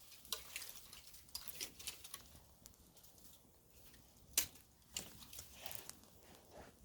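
Wood campfire crackling, with irregular small pops and snaps and one sharper snap a little past the middle.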